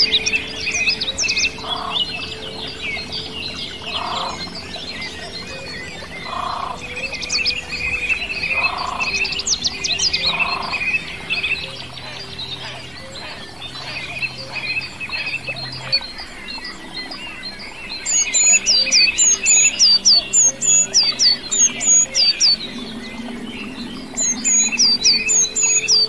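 Several wild birds singing at once. A low call repeats about every two seconds over a steady high trill, and about two-thirds of the way in another bird takes over loudly with rapid runs of high, falling whistled notes.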